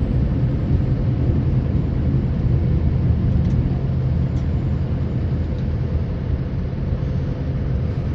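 Steady low drone of a snowplow truck's engine and road noise, heard inside the cab while driving.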